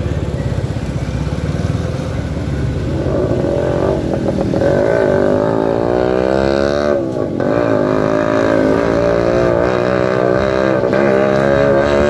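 CFMoto 300SR motorcycle's single-cylinder engine running under way, with wind rumble. The engine note climbs a few seconds in, drops and picks up again about seven seconds in as with a gear change, then holds steady.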